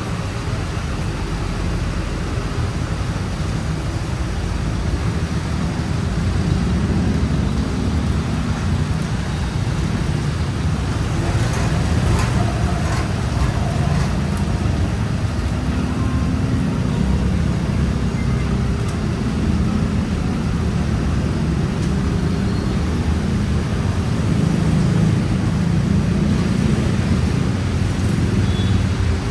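Steady city street traffic: engines and tyres of passing cars making a continuous low rumble, with a few brief clicks near the middle.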